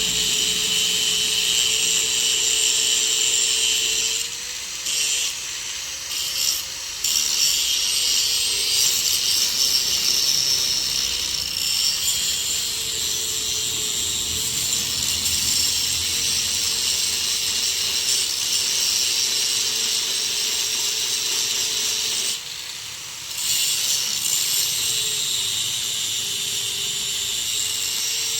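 Angle grinder cutting and grinding the metal of a chaff-cutter's step: a steady hissing grind over the motor's whine, which sags under load. The grinding stops briefly about four seconds in and again near twenty-two seconds as the disc comes off the metal, and the motor speeds up a little each time.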